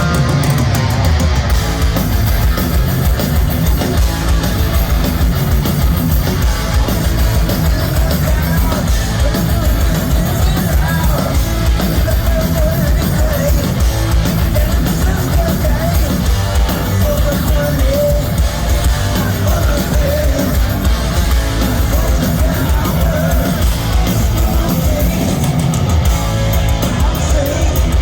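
Heavy metal band playing live at concert volume, with distorted electric guitars over fast drums and bass.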